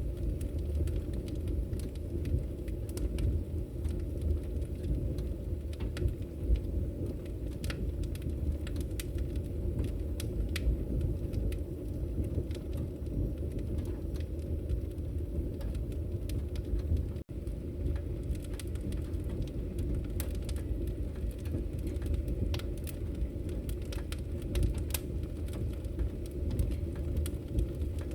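Firewood burning: a steady low rumble of flames with scattered sharp crackles and pops. The sound drops out for an instant about 17 seconds in.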